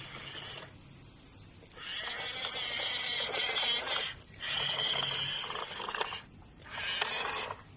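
Small electric motor and plastic gearbox of a Huina 1540 RC dump truck whining in four short runs of a second or two each, stopping between them as the controls are worked.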